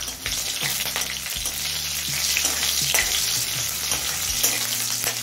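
Whole green chillies sizzling and crackling in hot mustard oil in a wok, stirred with a spatula that clicks and scrapes against the pan.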